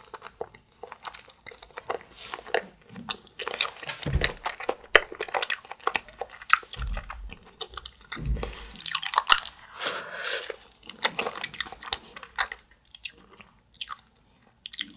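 Close-miked mouth sounds of biting and chewing an ice cream bar on a stick: wet smacks and crunchy clicks, with a few dull low thumps around the middle.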